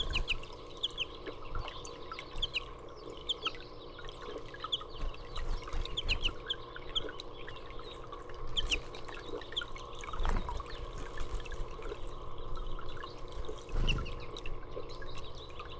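Small birds chirping, many short high notes scattered throughout, over a steady trickle of water. Two low thumps come about ten and fourteen seconds in.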